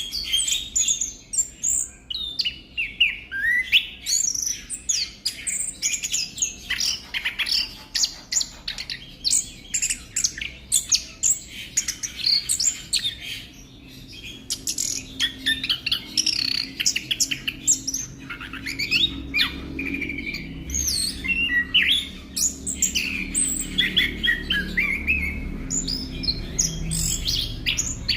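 A male orange-headed thrush singing a fast, varied song of rapid chirps and whistled notes that slide up and down in pitch, with hardly a pause. A faint low hum sits underneath from about halfway on.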